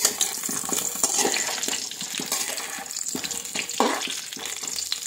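Whole lemons sizzling in hot sesame oil in an aluminium wok, stirred gently with a metal spatula that clicks and scrapes against the pan.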